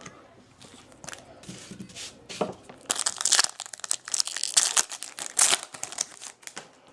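A foil baseball-card pack wrapper being torn open and crinkled in the hands. Scattered crackles build to a dense, louder crinkling through the middle of the stretch.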